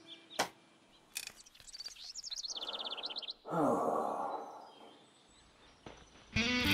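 A small bird's rapid, evenly repeated high chirps for about a second, followed by a breathy sigh that falls in pitch.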